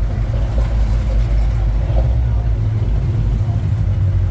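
The 1948 Ford F5 bus's engine running with a steady, low rumble.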